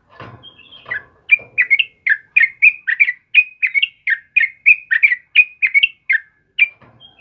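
Yellow-vented bulbul (trucukan) singing: a rapid run of short, bubbly chirping notes, about four a second, starting just over a second in and stopping near the end.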